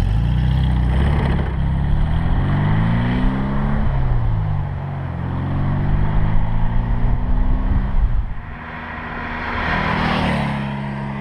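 1964 Porsche 356C's air-cooled flat-four engine accelerating through the gears. Its pitch climbs, drops at a shift about four seconds in, climbs again and drops at another shift about eight seconds in, then holds steady as the car cruises. A rush of noise swells and fades near the end.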